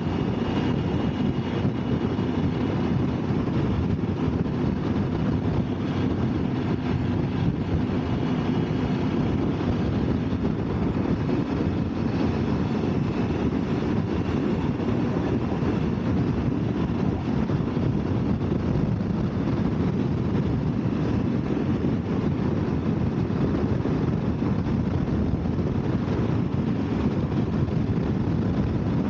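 Motorcycle riding at road speed: a steady engine drone mixed with wind rush on the microphone.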